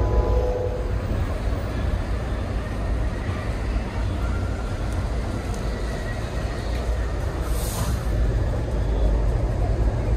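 Amtrak Superliner lounge car in motion, heard from inside: a steady low rumble of wheels on rail and car body, with a short hiss about three-quarters of the way through.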